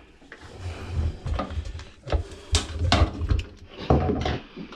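Knocks, clicks and clatter of hands handling parts inside an opened front-load washer, several sharp knocks between about two and four seconds in.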